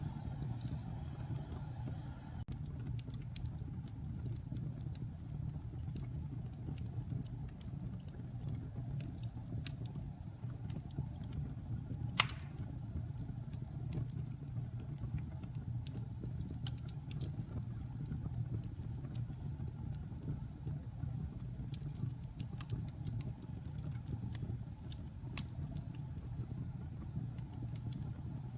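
Wood fire burning in a fireplace: a steady low rumble with scattered sharp crackles, and one loud pop about twelve seconds in.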